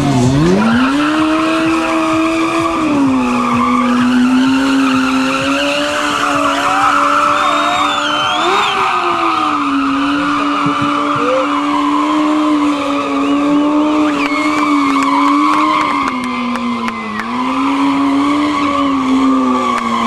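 Sport motorcycle doing a burnout: the engine is held at high revs at a steady pitch that dips briefly a few times, over the continuous squeal and hiss of the spinning rear tyre.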